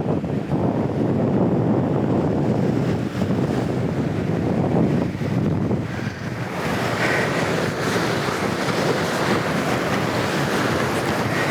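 Strong wind buffeting the microphone over waves breaking on the shore. About six and a half seconds in, the sound turns to a brighter, hissing wash.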